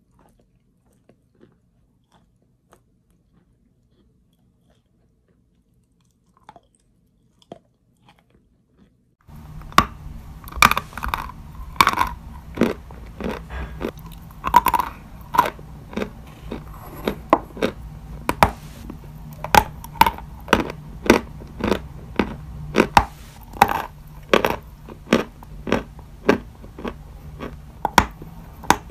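Wet chalk being bitten and chewed close to the microphone. For the first nine seconds only a few faint mouth clicks are heard, then loud, sharp crunches start and repeat about once or twice a second over a low steady hum.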